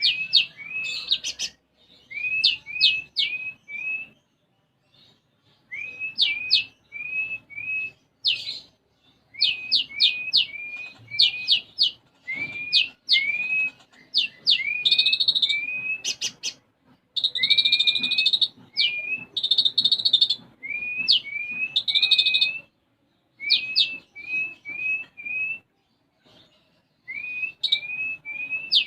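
A konin songbird singing vigorously in repeated bursts of quick notes: sharp downward flicks, each followed by a short rising chip. Buzzy chattering stretches are worked in, the sparrow-call 'isian' (borrowed phrases) that its song is trained to carry.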